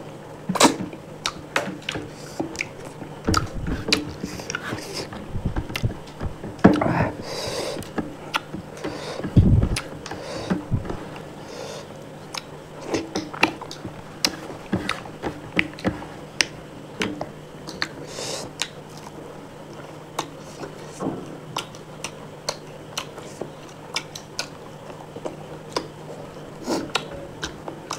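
Close-miked eating: a person chewing and biting food, with many short sharp clicks of the mouth and food.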